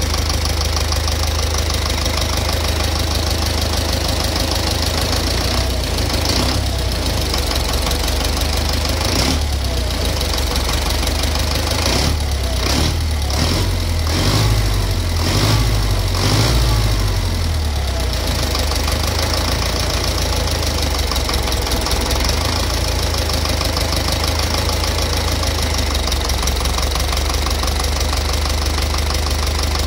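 Engine idling with a knock in it, its speed briefly raised and dropped a few times near the middle before it settles back to idle.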